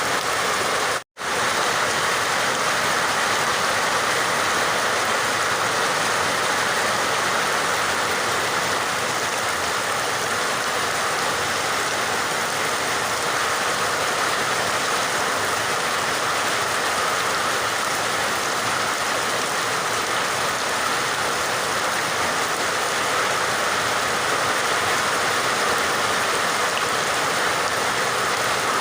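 Steady, dense rain, an even hiss of many drops with no let-up. About a second in it cuts out to silence for a moment, then resumes.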